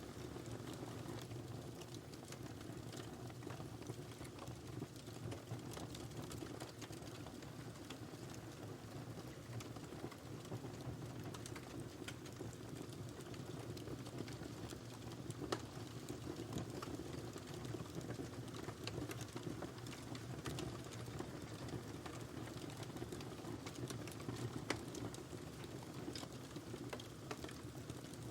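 Wood fire crackling in a fireplace: a steady low sound of burning, dotted with many small snaps and pops and a few louder ones.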